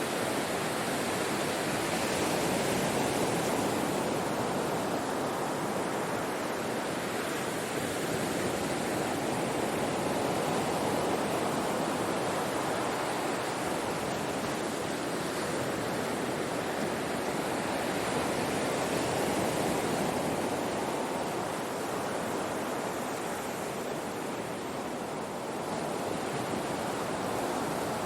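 Ocean surf washing on a shore: a continuous rushing wash of breaking waves that swells and eases gently, with no separate crashes standing out.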